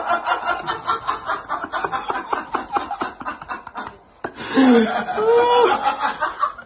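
A person giggling off-camera in rapid, breathy snickers for about four seconds. After a short break, a voice sounds with its pitch sliding up and down.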